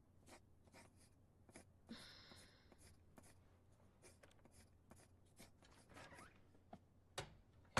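Pencil scratching on paper in quick, irregular strokes while drawing, faint, with one longer stroke about two seconds in. A soft thump near the end.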